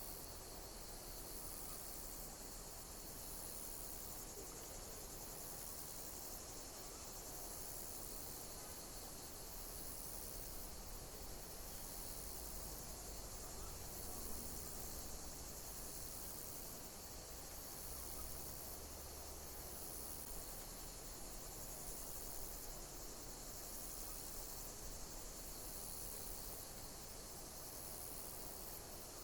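Insects chirping: very high chirps repeating evenly a little more than a second apart over a steady high-pitched insect hiss.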